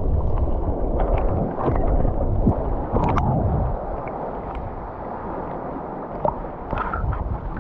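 Seawater in the surf churning and splashing, a heavy low rumble for the first few seconds that eases into lighter sloshing with scattered small splashes.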